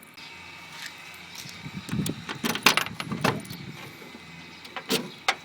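Keys jangling and a series of sharp clicks and knocks, bunched together about two to three and a half seconds in with two more near the end: the handling of keys and latch while a car's trunk lid is unlocked and opened.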